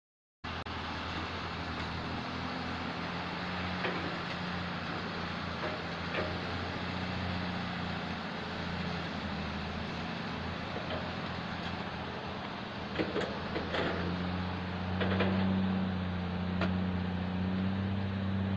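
Heavy diesel engine of earthmoving machinery running steadily, with a few scattered clanks and knocks; the engine gets louder for a couple of seconds about three-quarters of the way through.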